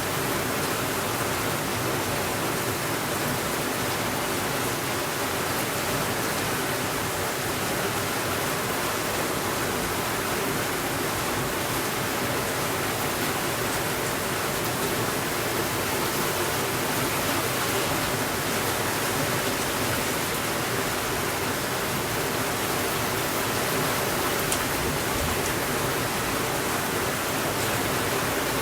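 Steady rainfall, an even hiss that does not change, with no thunder.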